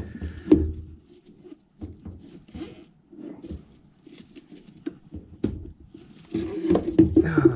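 Scattered light taps, clicks and rustling of hands handling tools and parts in a cramped space, busier near the end.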